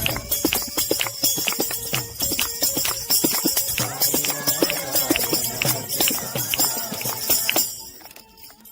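Bhajan music with fast, evenly spaced percussive strikes, about four or five a second, and a bright metallic shimmer. It breaks off abruptly shortly before the end.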